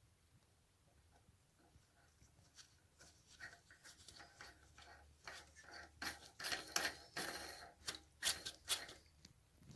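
Parts being handled: scraping, rubbing and rustling that grows busier partway through, with several sharp loud clicks in the last few seconds.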